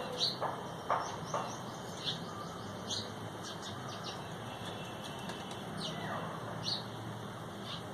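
Birds giving short, sharp high chirps at irregular intervals, with a few brief lower flutters or knocks in the first second or so.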